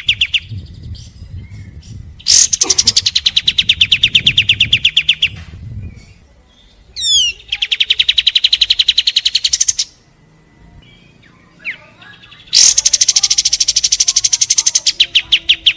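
Kapas tembak song: three long, rapid trills of fast, evenly repeated sharp notes, about ten a second, each lasting a few seconds with short pauses between. A brief series of falling notes comes just before the middle trill.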